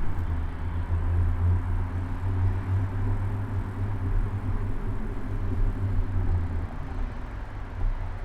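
City road traffic heard from a bicycle, dominated by a nearby motor vehicle engine's steady low hum, which eases off about seven seconds in.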